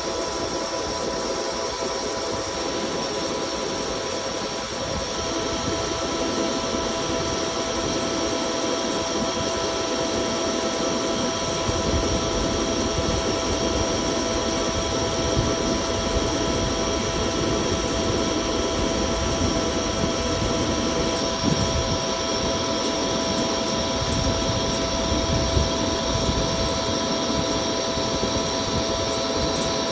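CNC lathe running during a turning job, a steady machine whine made of several held tones over a hiss. A deeper rumble joins in about twelve seconds in.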